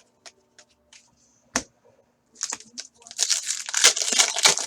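A foil trading-card pack wrapper being torn open and crinkled, with a few light clicks and a sharper snap of card handling before it. The crinkling starts about two and a half seconds in and is loudest over the last second and a half.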